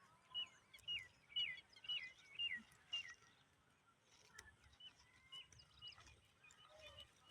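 A bird calling: a quick series of about six sharp, high, down-slurred notes, roughly two a second, then a few fainter calls later on.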